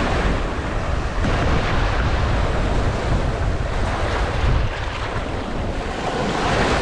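Strong wind buffeting the microphone: a steady rushing noise with heavy low rumble.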